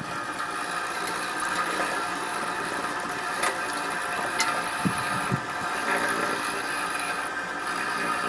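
Paoloni brick cleaning machine running, its vibrating chisels scraping mortar off old bricks: a steady mechanical hum with a few sharp knocks about halfway through.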